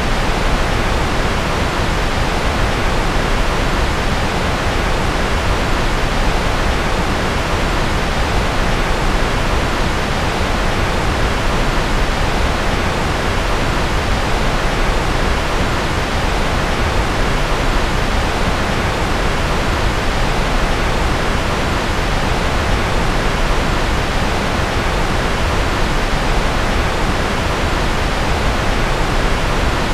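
Steady, unchanging generated noise for masking and focus: an even hiss, fuller in the low and middle range than at the top.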